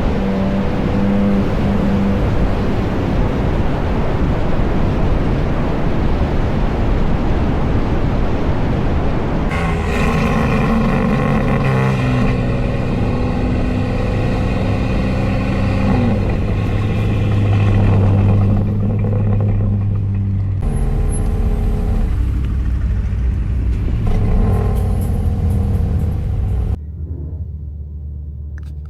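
Car engines and exhausts running and revving at close range. Loud, dense rumble for the first several seconds, then changing engine tones with a short pitch glide; the sound drops off abruptly near the end.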